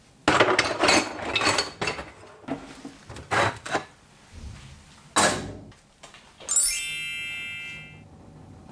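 Metal parts being handled, scraped and knocked together, then a single sharp strike on a metal piece that rings with a bright, high tone and fades out over a second or so.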